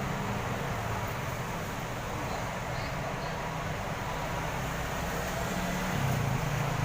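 Large diesel bus engine running steadily with a low hum, growing a little louder about six seconds in.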